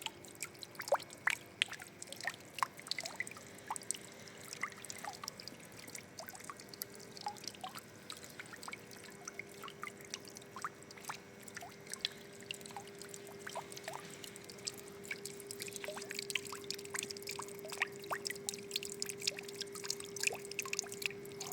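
Water trickling and dripping: many small irregular drips and splashes over a soft running-water sound.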